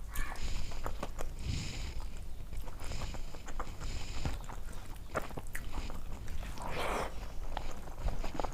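Close-up chewing and eating sounds: wet mouth smacks and many small clicks as a mouthful of rice and curry is chewed.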